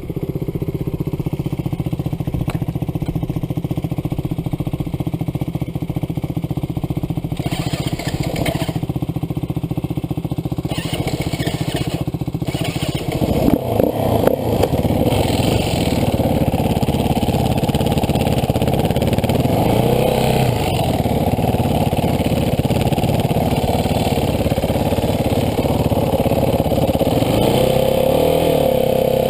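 Dirt bike engine running under way, getting louder about halfway through, with the revs rising and falling twice near the end.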